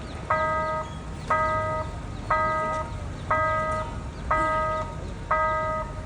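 Electronic level-crossing warning bell sounding: a steady chord-like beep about half a second long, repeating once a second, the signal that a train is approaching and the crossing is closed.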